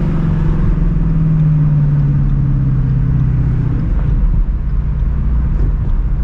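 Ford Mustang Shelby GT350's 5.2-litre flat-plane-crank V8 running under light load, a steady exhaust drone that slowly drops in pitch, then breaks into a rougher, lower rumble about four seconds in.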